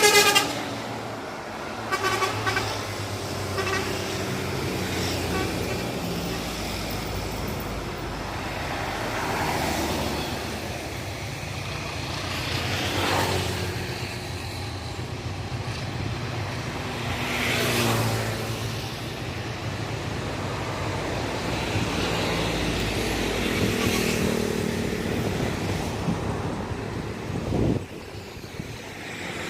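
Vehicle noise outdoors: a horn toots at the very start, then a steady low rumble runs on while vehicles pass by about three times.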